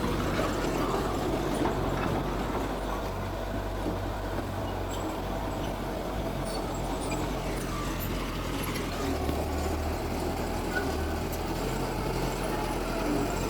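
Heavy diesel engine of earthmoving machinery running steadily, with a low hum.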